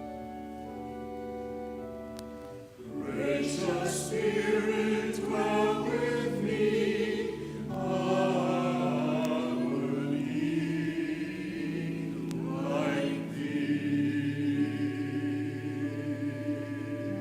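Organ holding sustained chords; about three seconds in, a choir comes in singing over the organ.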